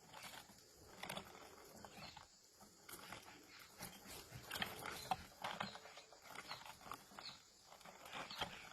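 Birds calling: an irregular scatter of short chirps and clicks, some notes falling quickly in pitch.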